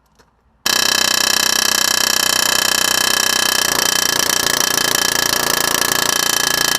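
Power impact wrench hammering continuously on a seized sway-bar end-link nut. It starts suddenly, loud and steady, a little under a second in.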